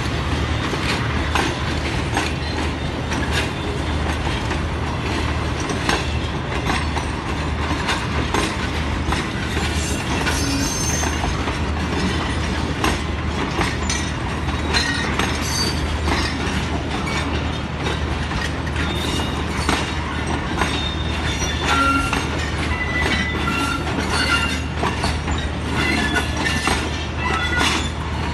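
Passenger coaches of an arriving express train rolling past, wheels clicking over rail joints over a steady low drone, with scattered high-pitched wheel and brake squeals as the train slows into the station.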